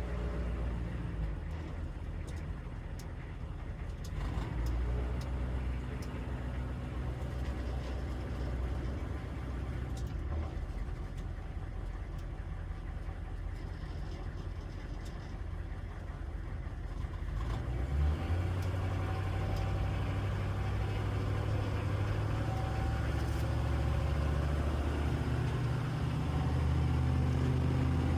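Humvee's diesel V8 engine running steadily, getting louder about two-thirds of the way through.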